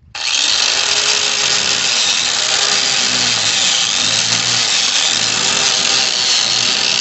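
Power grinder cutting into bare metal, starting abruptly and running hard, its motor pitch dipping and recovering as it bites: grinding the metal clean so the weld has something to stick to.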